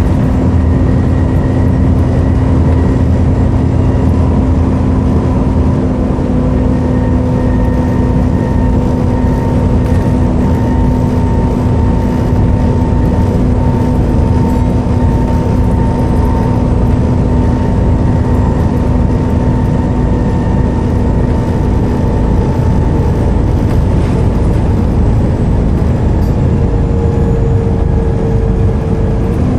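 Volvo B7TL double-decker bus's diesel engine running steadily, a deep rumble with a steady whine over it that holds pitch throughout.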